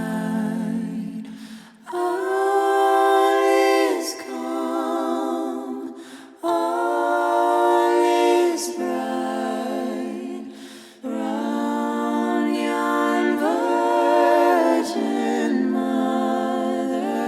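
Wordless a cappella vocal music: sustained hummed or sung notes with vibrato, in phrases of a few seconds with short breaths between.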